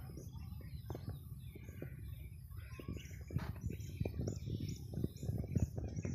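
Small birds chirping, with many short high calls that come more often toward the end. Beneath them runs a steady low rumble with scattered soft knocks.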